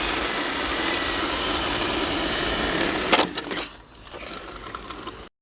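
Exceed RC Mad Drift 1/8-scale electric drift car running on pavement, its brushless motor and tyres making a steady mechanical noise. A few sharp knocks come about three seconds in, then the sound drops much quieter and cuts off just before the end.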